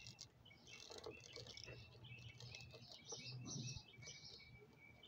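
Faint birds chirping in the background: many short, high chirps, repeated in quick runs.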